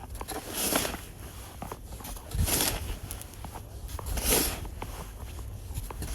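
Snow shovel scraping and crunching through snow in three regular strokes, about two seconds apart, over a low rumble.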